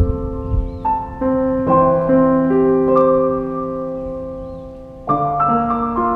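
Background music: slow, soft solo piano, notes and chords struck and left to ring and fade, with a long chord dying away before new notes come in about five seconds in.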